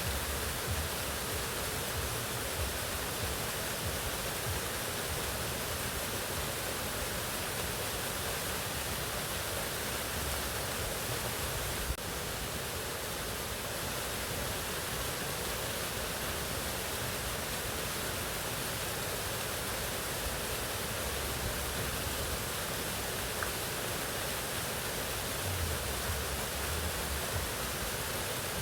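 Mountain waterfall: water falling and rushing in a steady, unbroken roar with a low rumble underneath.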